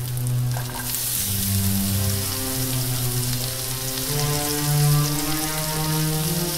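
Sliced mushrooms and freshly added chopped vegetables sizzling in a hot frying pan. The sizzle grows suddenly louder about a second in as the new pieces hit the pan. Slow music with long, held low notes plays over it.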